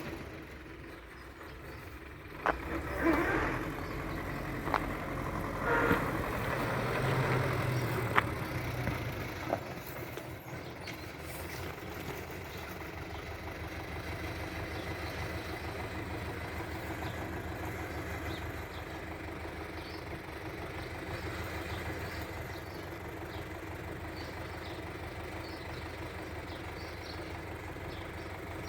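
MTZ tractor's diesel engine idling steadily. There are a few sharp knocks and louder bursts in the first ten seconds.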